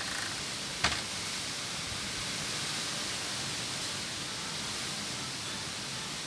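Strong wind rushing through a melinjo tree's foliage, a steady hiss, with one sharp click a little under a second in.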